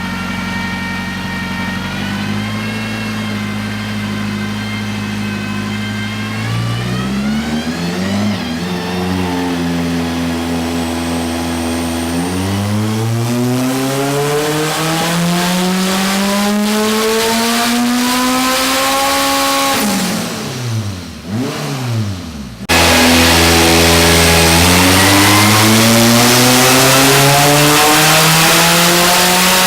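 Turbocharged car engine on a chassis dyno making power runs: it holds steady for several seconds, then its pitch climbs in a long pull, drops away briefly, and comes back suddenly louder, climbing again near the end.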